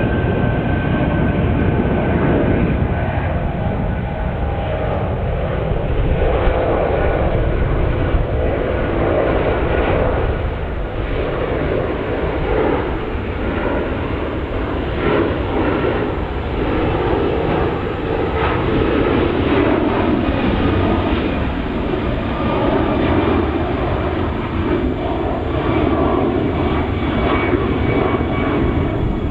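Jet airliner departing, its engines at takeoff power making a loud, steady noise.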